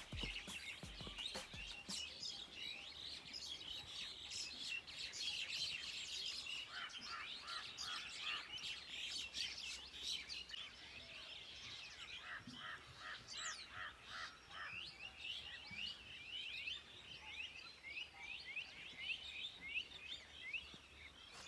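Several small birds chirping and twittering in a dawn chorus, many quick high chirps overlapping, with one bird twice giving a run of about eight evenly repeated notes.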